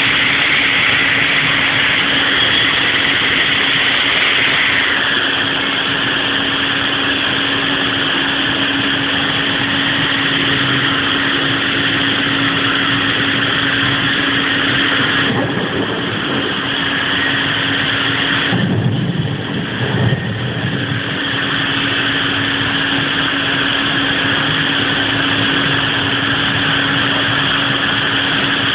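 Heavy rain pouring down, a dense steady hiss, with a steady low hum beneath it. About two-thirds of the way through the hiss dips briefly and a short low rumble comes through.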